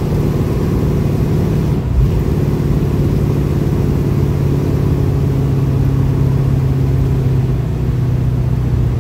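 1969 Pontiac Firebird's engine running steadily while the car cruises, its exhaust holding an even pitch, with a brief dip and click about two seconds in.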